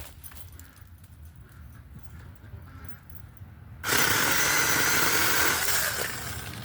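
Mini chainsaw cutting tree branches: it starts suddenly about four seconds in and runs loud with a steady whine for about two seconds, then drops lower.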